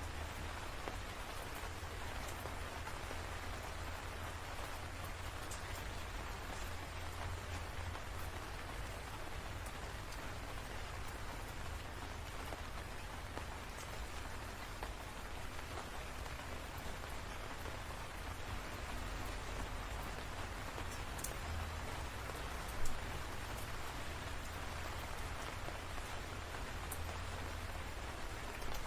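Steady rain falling, with scattered individual drops ticking on a surface and one louder drop or tap about 23 seconds in.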